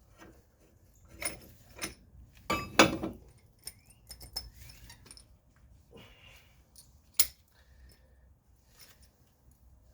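Metal tools and parts clinking and clanking as they are handled, a string of separate knocks with the loudest about three seconds in and another sharp one about seven seconds in.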